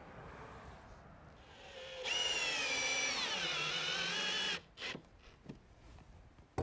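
Power drill running for about two and a half seconds, its whine sagging in pitch as it takes load, then stopping abruptly.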